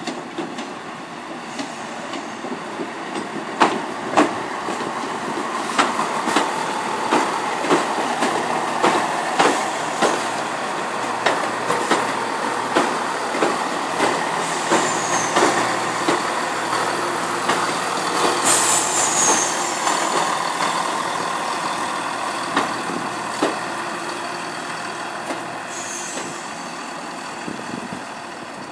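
Greater Anglia Class 170 Turbostar diesel multiple unit running past along the platform: a steady diesel hum with regular clicks of the wheels over the rail joints. The sound builds to a peak mid-way, and a brief high squeal comes about two-thirds of the way through.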